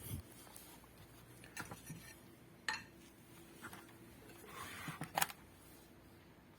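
A few faint clicks and light knocks of small parts and tools being handled on an electronics workbench, the loudest pair a little after five seconds in.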